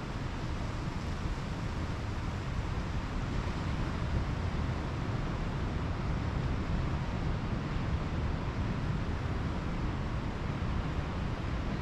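Pacific Ocean surf washing steadily on the beach, with wind rumbling on the microphone.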